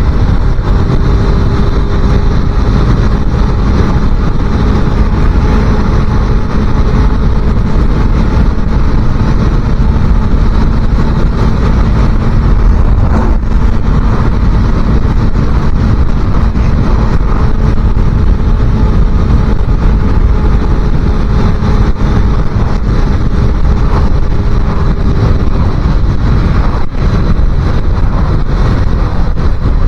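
A 250cc motorcycle running steadily at road speed, its engine note held constant, under heavy wind rush on the microphone.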